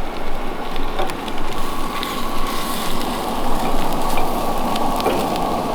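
Food sizzling in hot grease in a pan over a campfire: a steady hiss with scattered crackles. A faint steady tone joins about a second and a half in.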